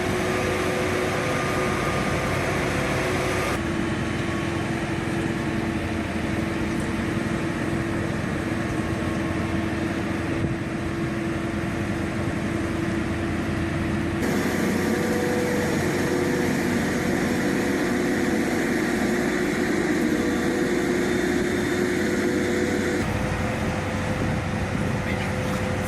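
Heavy-haul truck engines running steadily, a continuous drone with held tones. The sound changes abruptly about three times where one clip is cut to the next.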